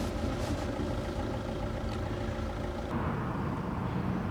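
A steady engine or machinery hum with several constant tones in it, shifting in pitch about three seconds in.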